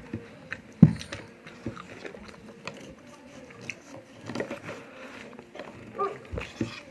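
Close-up eating sounds: chewing and biting with small crunches and mouth clicks. A sharp knock about a second in is the loudest sound.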